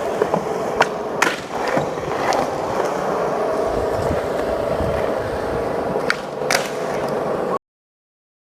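Skateboard wheels rolling on pavement with a steady rolling noise, broken by several sharp clacks of the board. The sound cuts off suddenly near the end.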